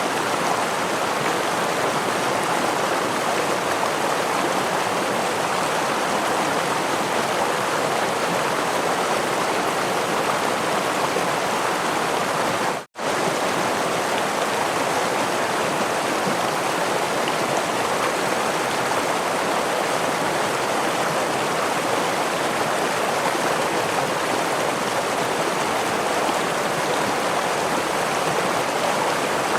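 Steady rushing of a gentle stream and small waterfall. It cuts out for a split second about halfway through, then carries on unchanged.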